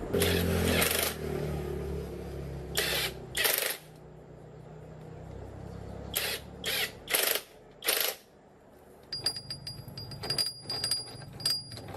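Several short hissing bursts over a low steady hum, then a quick run of light metallic clinks and taps from gearbox parts being handled.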